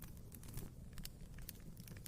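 Wood fire crackling in a fireplace: scattered sharp pops and snaps over a low steady rumble of the burning fire.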